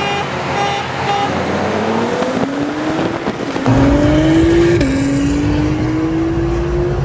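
A Stage 1 tuned Mercedes-AMG C63 (W205) and an Acura NSX racing side by side at full throttle, their engine notes climbing, with an upshift a little under five seconds in and the pitch climbing again after it. From about halfway it is heard from inside the C63's cabin, with a heavier low rumble.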